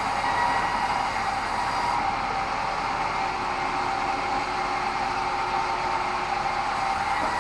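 Sawmill bandsaw running steadily, a constant whine over even machine noise.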